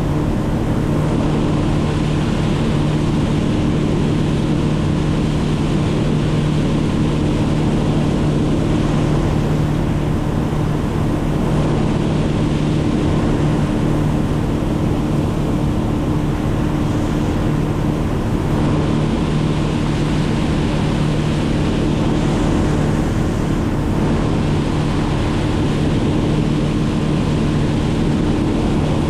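An engine running at a steady, unchanging speed: a constant pitched drone with rushing noise over it.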